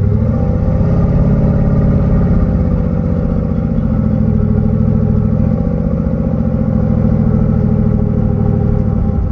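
Large vehicle engine running steadily with a deep, rhythmic rumble, its pitch nearly constant.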